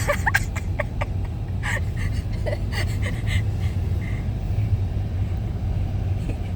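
Car driving through the snow, heard from inside the cabin: a steady low road and engine rumble, with a few short clicks and knocks in the first three seconds.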